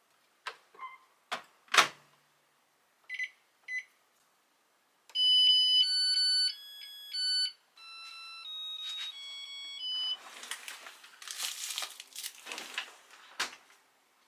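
A few clicks, then two short button beeps and a short electronic melody of pure tones from a kitchen appliance being set and started. The melody is followed by a few seconds of rushing, hissy noise.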